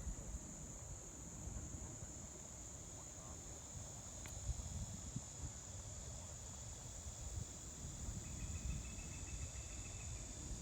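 A steady, high-pitched chorus of insects buzzing along the riverbank, with low rumbling underneath. A brief rapid trill comes in near the end.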